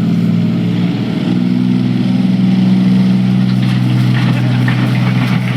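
A tractor-pulling tractor's engine running hard and steady under load during a pull, growing a little louder about a second in.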